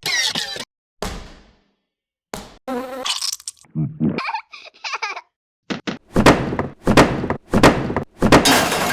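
A montage of short edited sound effects cut one after another with dead silence between them: a hit that fades away, thuds, a wavering pitched sound in the middle, then a run of loud hits in the second half.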